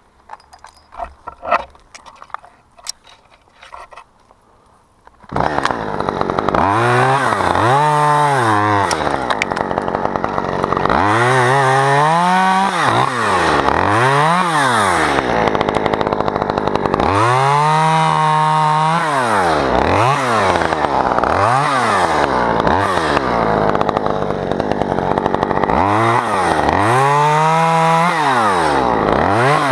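A chainsaw starts about five seconds in, after a few faint clicks and knocks. It is then revved up and down over and over, its pitch climbing and falling, sometimes held at full speed for a second or two.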